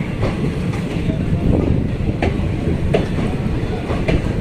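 Passenger train running on the track: a steady rumble with wheels clicking over rail joints at uneven intervals.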